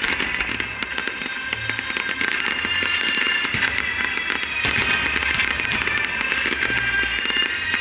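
Aerial fireworks shells bursting in quick succession, with dense crackling, thickest about halfway through.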